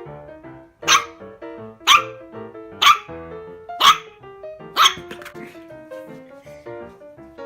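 Maltese puppy barking five times, about once a second, over background piano music.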